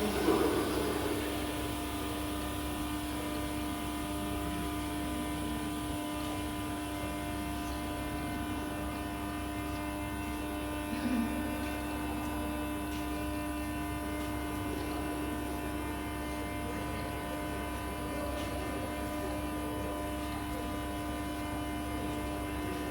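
A metro train standing at the platform, its onboard equipment giving a steady electrical hum with a fixed tone. An air hiss dies away at the start, and there is one short low bump about eleven seconds in.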